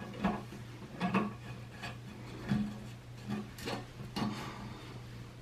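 Irregular plastic clicks and scrapes as a new toilet flush handle is fitted through the tank wall and its mounting nut is worked on, about seven small knocks spread across the few seconds.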